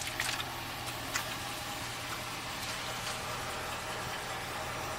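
Silverado pickup's Vortec V8 idling steadily, with a few light clicks over it.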